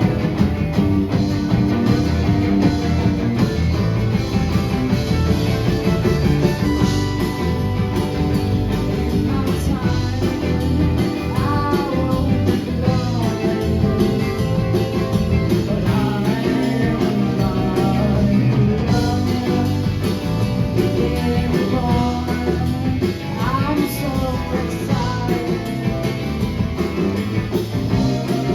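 A live band playing a rock song with guitar. A lead melody line slides up and down in pitch in several places.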